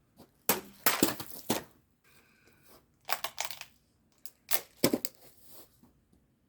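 Ozark Trail knife slicing through plastic bottles, a crackling, crinkling crunch of plastic in three separate cuts.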